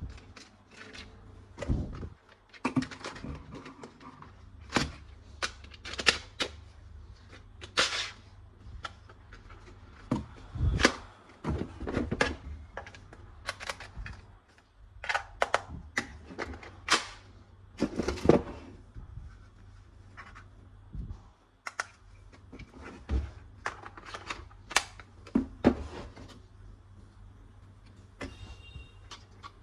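Irregular clicks, snaps and knocks of hard plastic toy gun parts being handled, some in quick runs, others a second or more apart. A faint high tone sounds near the end.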